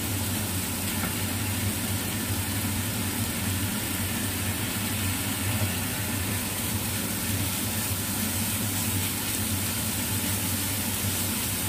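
Sliced chicken sausage sizzling steadily in a hot frying pan, over a constant low hum.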